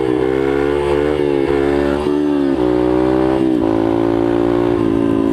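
Yamaha TTR125 pit bike's single-cylinder four-stroke engine running under way. Its pitch dips about two seconds in and again around three and a half seconds, then holds steady at a lower pitch.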